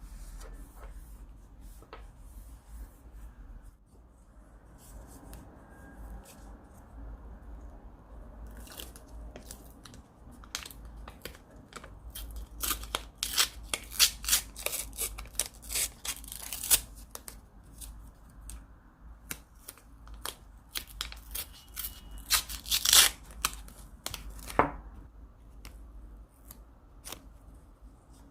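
Paper crafting sounds: masking tape being peeled and torn and paper crinkling, a run of crisp crackles. It starts quiet, grows denser about a third of the way in, is loudest around the middle and again near the three-quarter mark, then settles.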